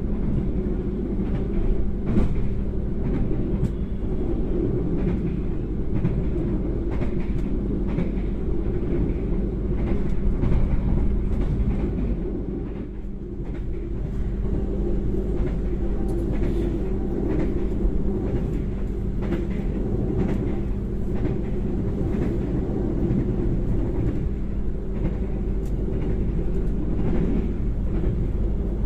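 Senja Utama Yogya economy passenger coach running along the rails, heard from inside the carriage: a steady low rumble with a constant hum and scattered light clicks.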